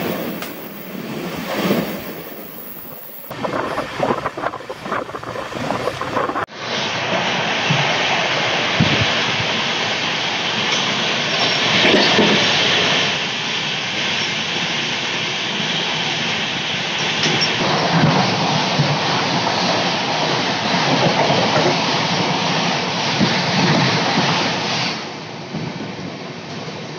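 Passenger train running at speed, heard from an open coach doorway: steady running noise of wheels on rails, with scattered clacks over rail joints. The sound jumps to a louder, steadier passage about six seconds in.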